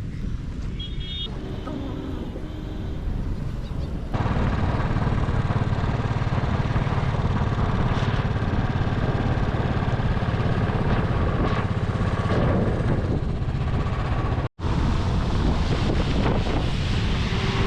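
Motorcycle engine running steadily while riding, with wind buffeting the microphone; it cuts in abruptly about four seconds in after a quieter stretch, and drops out briefly near the end.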